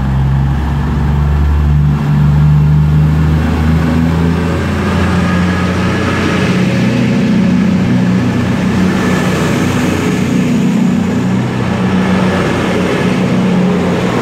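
Class 220 Voyager diesel multiple unit pulling away, its underfloor diesel engines working hard under acceleration, the engine note stepping up in pitch a few times over a broad rumble of wheels and air.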